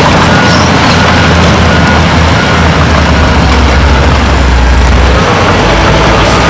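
Diesel engine of heavy earthmoving machinery running loud and steady, with a reversing alarm beeping at an even pace through the first half.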